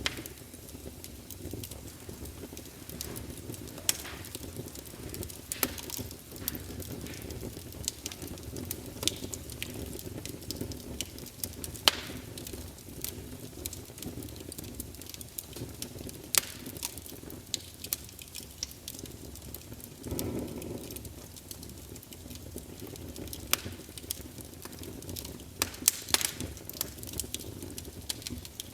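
Campfire burning steadily: a low rumble of flames with scattered sharp crackles and pops from the burning wood, a few louder than the rest, and a brief swell of flame roar about two-thirds of the way through.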